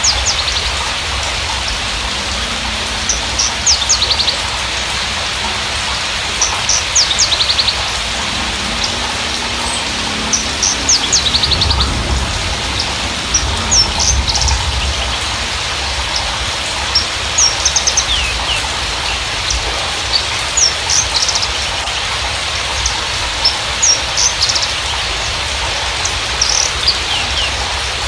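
Javan bushlark (Mirafra javanica parva) singing: short phrases of quick high chirps and buzzy trills repeating every second or two, over a steady rain-like hiss.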